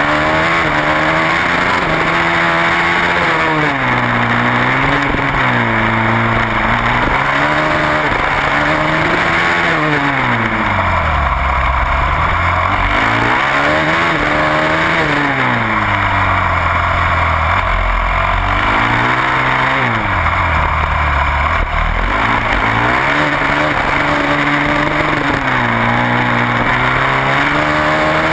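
Supermoto racing motorcycle's engine heard from an onboard camera at racing speed, its revs climbing and dropping every two to three seconds as the rider changes gear and brakes into corners, over a constant rush of wind noise.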